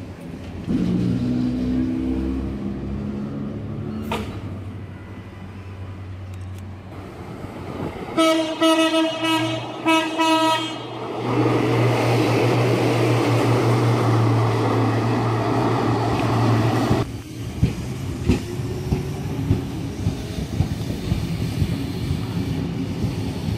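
A Sydney Trains S-set double-deck electric train departing. A stepped, rising motor whine comes in the first few seconds. Two long horn blasts sound about eight and ten seconds in. Then comes the heavy running rumble of the cars moving off, followed by a series of wheel clicks over rail joints.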